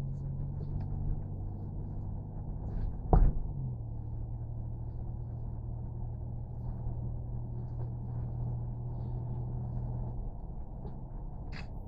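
A steady low engine hum, like a running vehicle, with one sharp knock about three seconds in. Just after the knock the hum drops slightly in pitch.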